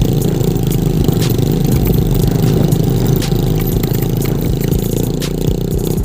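Tractor engine running steadily under load, with rattling and clattering knocks from the ride.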